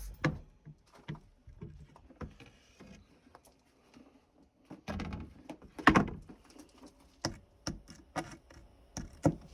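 Pneumatic nail remover firing, with sharp cracks as it drives nails out of the wood, the loudest about six seconds in, and lighter knocks and clinks between as the ejected nails hit the floor like spent shell casings.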